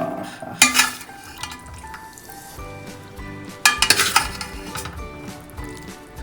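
Background music playing under dishes and cutlery clinking: two brief clusters of sharp clinks, the first just under a second in and a louder one about four seconds in, as food is served onto a plate.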